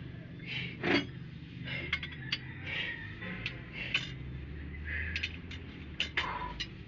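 Irregular metallic clinks and knocks of tools and parts being handled, about ten in a few seconds, over a low steady hum.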